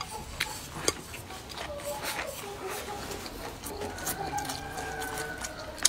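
Close-up chewing and wet mouth clicks as a person eats, with faint voices in the background.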